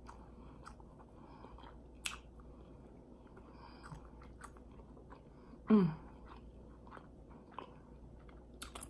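A person chewing a mouthful of fried egg roll with a ham hock filling, close to the microphone: soft wet mouth sounds and small crunches of the fried wrapper, with a sharp click about two seconds in and a short hum near the middle.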